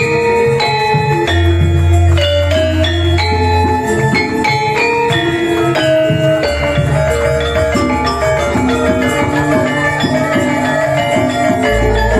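Javanese gamelan music: struck bronze metallophones ringing out a steady run of notes over long, sustained low tones.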